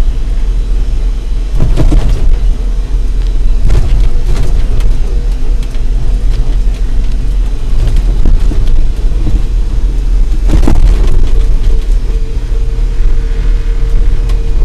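Heavily loaded Smith Cabac electric truck, an ex-milk float, rolling down a steep hill on its brakes: a steady low rumble with sharp knocks and rattles from the body and load, three of them loud.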